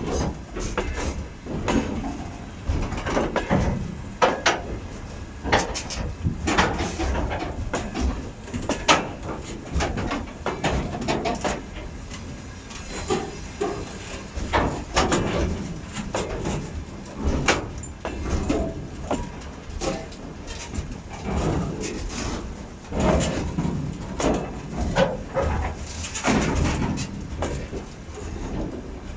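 Railway train moving through the station: a steady rumble with many irregular clanks and knocks from wagons and wheels.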